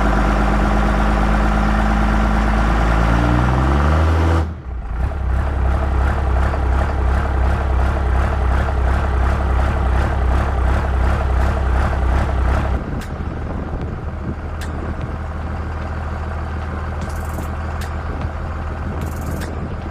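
P-pump 24-valve Cummins diesel engine running, its pitch rising just before four seconds in; then the sound changes abruptly to a lower, pulsing run that steadies and drops a little in level later on.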